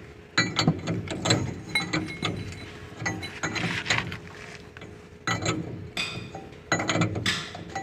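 Hand ratchet wrench clicking in several quick bursts, with metal tools clinking, as bolts are loosened during disassembly of a truck differential.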